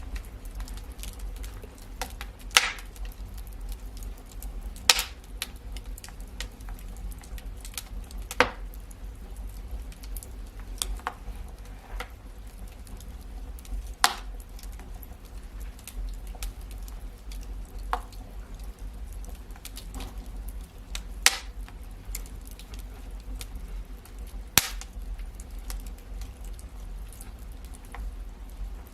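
Wood fire crackling in a fireplace: irregular sharp pops and snaps, a few loud ones every few seconds among many fainter ticks, over a steady low rumble.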